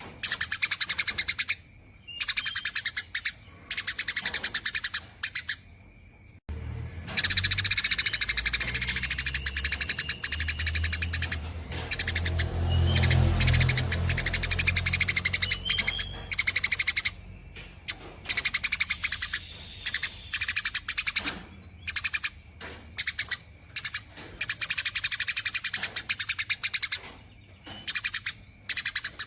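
Eurasian tree sparrow giving its long, rapid chattering song in runs of a second or two with short pauses between, plus one longer unbroken run in the middle. A low rumble sits under part of that longer run.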